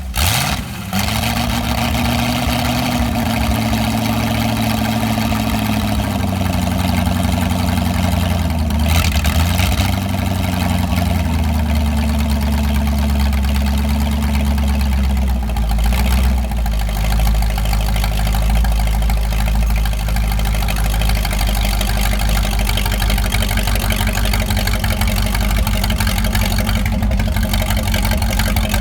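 Sixty-year-old carbureted GM Corvette V8 catching and running loud. Its speed wavers and settles lower over the first ten seconds or so, then it holds a steady idle.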